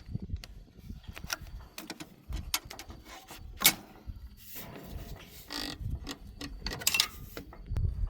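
Irregular clicks and knocks, with the sharpest one about three and a half seconds in and short scraping bursts later on.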